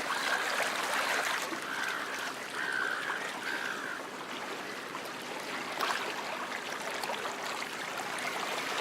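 Steady trickling stream water, with a few short high calls, plausibly a bird's, repeating during the first four seconds.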